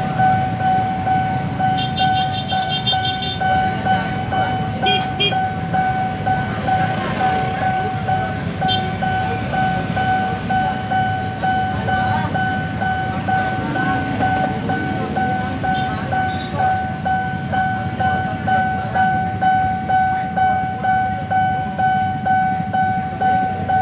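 Railroad level-crossing warning bell ringing continuously, a steady electronic ding repeating about once a second, over the low rumble of a commuter electric train and road traffic.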